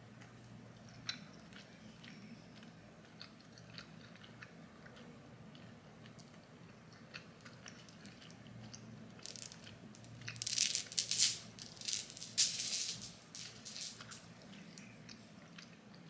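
A person chewing fried chicken nuggets close to the microphone: soft mouth clicks and smacks, with a few seconds of louder crackly crunching about ten seconds in. A low steady room hum lies underneath.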